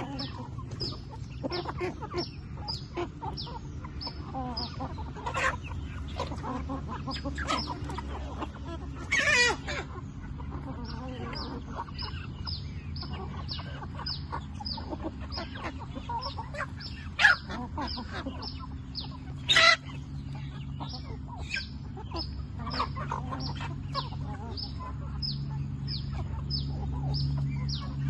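Chickens clucking, with a steady run of short, high peeps several times a second and a few louder calls, the loudest about nine and twenty seconds in, over a steady low hum.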